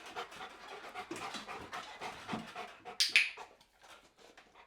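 A Rottweiler panting rapidly between training commands, with a short, louder sharp noise about three seconds in.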